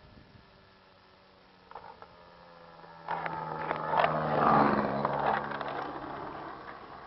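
Model airplane's O.S. 55AX glow engine droning steadily, then a loud rushing pass that swells about three seconds in, peaks and fades away.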